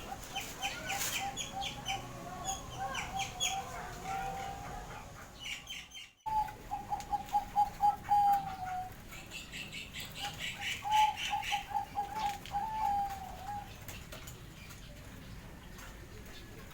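Zebra doves (perkutut) cooing in three long strings of rapid staccato notes, with higher bird chirps over them. The sound cuts out briefly about six seconds in.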